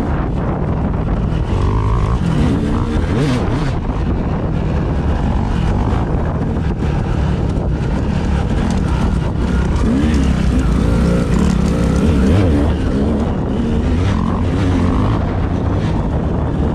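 A vehicle under way, with heavy wind buffeting on the microphone over the engine. The engine pitch rises and falls a little.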